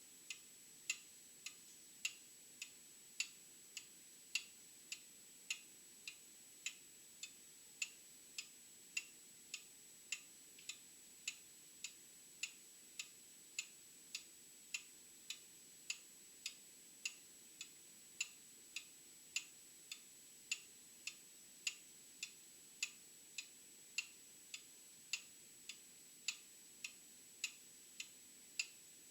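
Old mechanical clock ticking steadily, a little under two ticks a second, the ticks alternately louder and softer in a tick-tock pattern.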